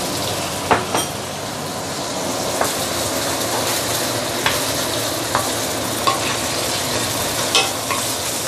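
Eggs and shell-on prawns sizzling steadily in hot oil in a stainless steel wok. A wooden spatula stirs the eggs, with a short knock or scrape against the pan every second or so.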